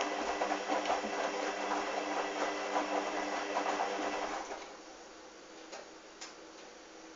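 Hoover washing machine mid-wash: the motor hums as it turns the drum of wet, sudsy towels, then stops about four and a half seconds in for the pause between tumbles. Faint clicks follow in the quieter pause.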